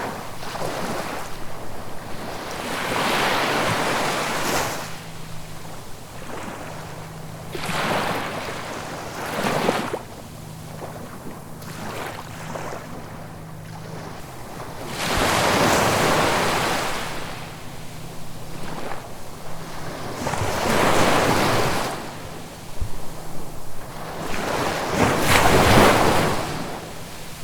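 Ocean waves breaking in repeated surges that swell and fade every few seconds, the loudest coming in the second half.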